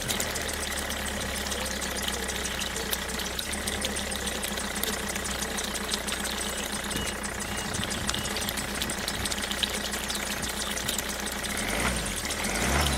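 Small DIY model engine running steadily, with a low hum and a rapid light knocking.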